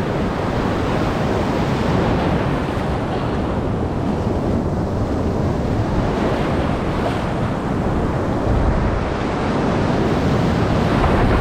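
Ocean surf rushing and breaking around a surfboard, heard close through the wind- and water-buffeted microphone of a GoPro mounted on the board, with the rush swelling and easing as waves pass.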